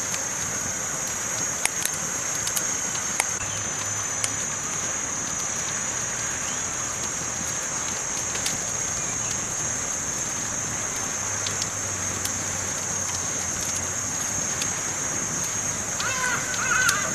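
Campfire burning with a steady hiss and sharp crackles and pops every second or few. Near the end a short wavering pitched call rises over it.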